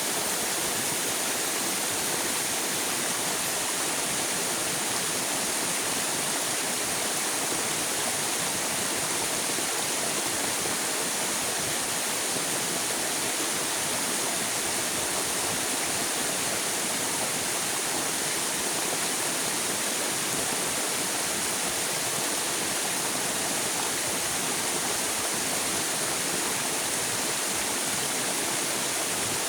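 River water rushing and flowing, a steady, even noise with no change.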